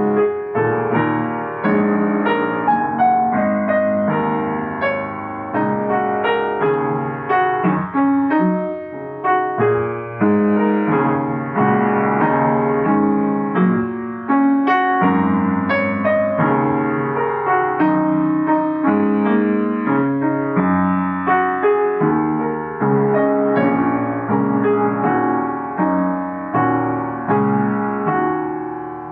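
Improvised solo piano playing: a steady flow of struck notes and chords, each ringing and fading under the next.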